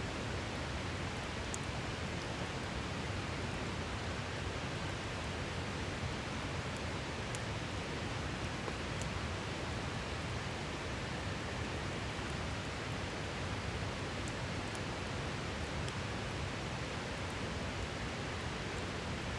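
A river rushing steadily, with a few faint, scattered crackles from a wood campfire.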